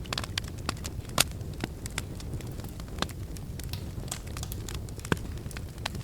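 Wood fire in a fireplace crackling: a steady low rumble of flames with many quick snaps and pops. The loudest pops come about a second in and again near the end.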